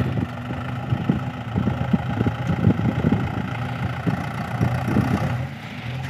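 Mahindra 575 tractor's diesel engine running steadily, with irregular low knocks and rattles over it. The engine sound dips briefly near the end.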